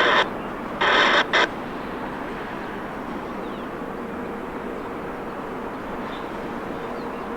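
Air traffic control radio: two short bursts of keyed transmission, at the start and about a second in, then a steady hiss of the open channel.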